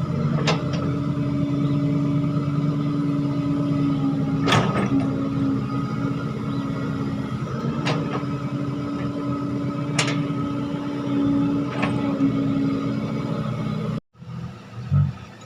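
Heavy diesel machinery engine running steadily, with a sharp knock or clank every two to four seconds. The sound cuts off abruptly near the end and gives way to a quieter engine sound.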